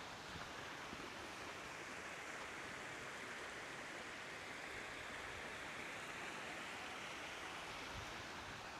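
Faint, steady rushing of running water in a stream, an even hiss with no separate splashes.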